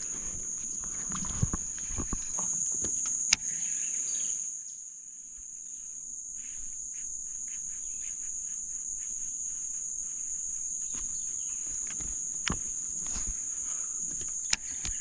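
Insects calling in a steady, unbroken high-pitched drone, with a few sharp clicks and knocks over it.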